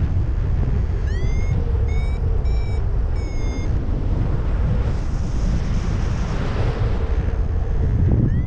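Strong wind buffeting the microphone in a steady low rumble. About a second in, a paragliding flight variometer beeps four times at a high pitch, the first beep sliding upward: its climb tone, signalling that the glider is rising in lift.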